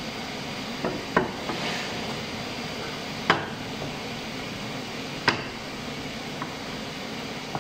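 Four sharp wooden knocks, spaced irregularly over a few seconds, the third the loudest, over a steady background hiss.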